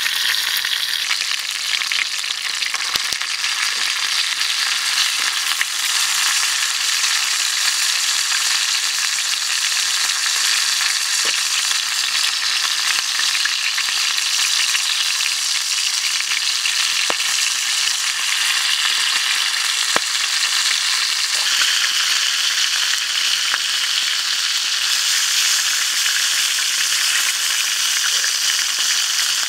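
Hot oil sizzling steadily around a whole chicken leg frying in a shallow pan, with a few faint clicks through it.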